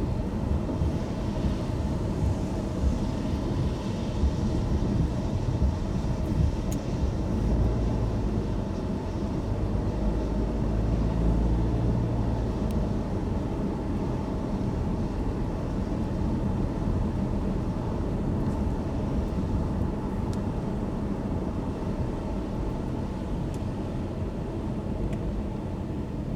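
Car driving on a wet road in the rain: a steady low road and tyre rumble that grows deeper and louder from about 7 to 12 seconds in, with a few faint ticks.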